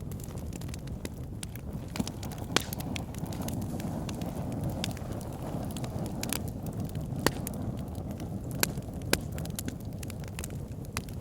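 Wood fire burning in a backyard fire pit: a steady low rush of flames with frequent small crackles and several louder single snaps and pops.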